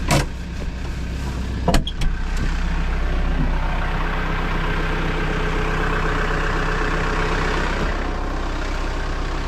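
Vehicle engine idling steadily, with a few sharp knocks and clunks in the first two seconds.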